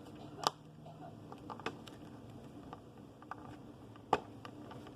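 Light plastic clicks and taps from handling small building-block action figures: two sharp clicks, about half a second in and again near the end, with faint ticks between.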